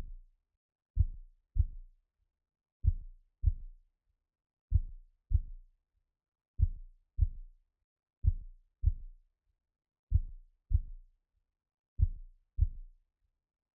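Slow, steady heartbeat sound: paired low thuds (lub-dub) repeating about once every two seconds.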